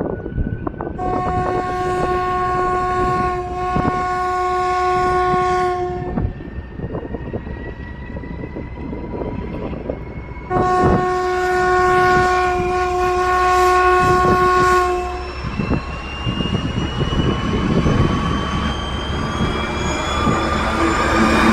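Diesel locomotive departing: its horn sounds two long blasts of about five seconds each, a few seconds apart, over the steady rumble of the diesel engine, while a whine climbs steadily in pitch as the engine throttles up.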